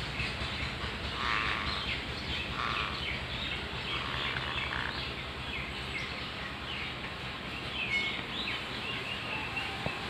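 Birds chirping: short, repeated high calls, with two fuller calls in the first few seconds, over a steady low rumble.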